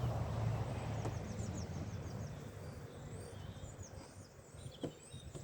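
Small bird chirping in a run of short, high, quick notes over a low hum that fades over the first few seconds, with one sharp click near the end.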